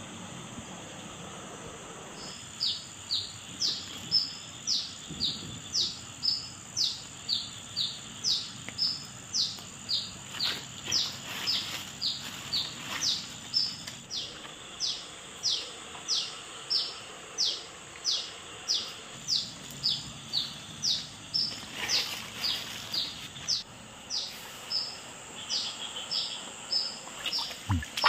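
A bird repeating a short, high, falling note about twice a second. The calling starts a couple of seconds in and goes on evenly over a steady background hiss.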